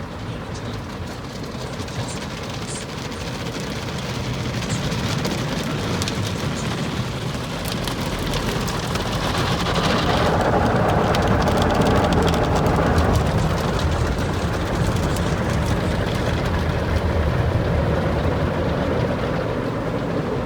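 Automatic car wash heard from inside the car: rotating brushes and water spray beating on the roof and windows, a steady wash noise full of fine patter that builds to its loudest about halfway through.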